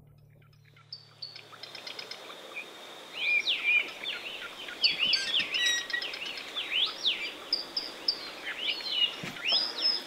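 Forest birds chirping and singing in a rapid run of short rising and falling notes, starting about three seconds in, over a steady hiss.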